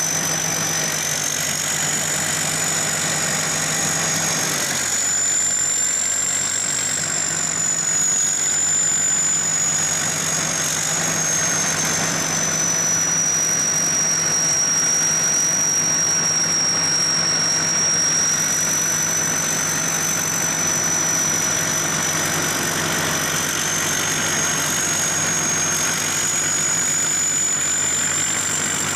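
SS-200 A rice combine harvester running steadily, engine and threshing machinery together, with a high-pitched whine that drifts slowly up and down in pitch.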